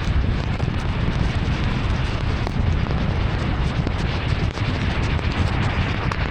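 Heavy rain pattering densely on a moving car, individual drops ticking over a steady low rumble.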